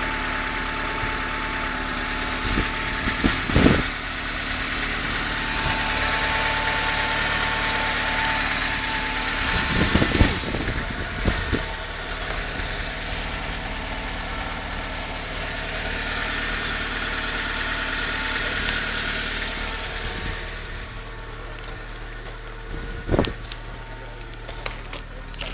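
A car engine idling steadily, with a few knocks: about three seconds in, around ten seconds in, and near the end. The higher hiss over the idle drops away about twenty seconds in.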